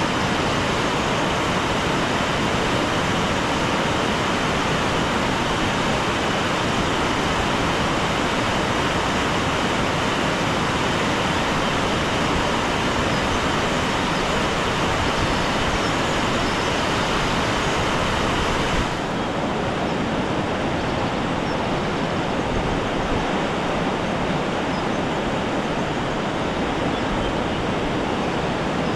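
Steady rushing of water, loud and even. About two-thirds of the way through it turns suddenly duller and a little quieter.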